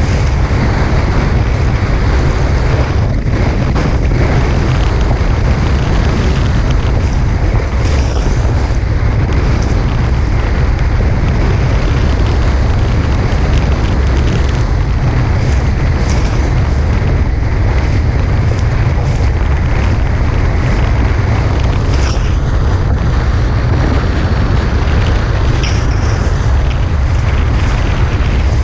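Strong wind buffeting an action-camera microphone on a Tornado catamaran sailing fast, a steady loud rumble with water rushing past the hulls and a few faint knocks.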